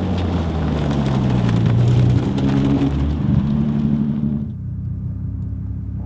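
Twin-turbo VR6 engine of the Volkswagen Design Vision GTI concept car running under way, its note shifting in pitch, with loud road and wind noise that falls away about four and a half seconds in as the car eases off and slows; the engine keeps running more quietly after that.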